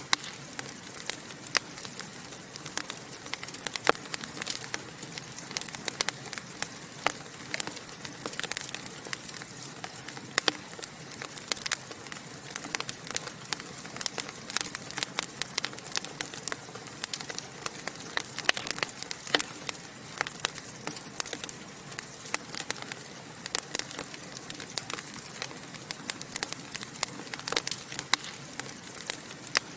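Wood fire burning in a fireplace, crackling and popping irregularly over a steady hiss of flame.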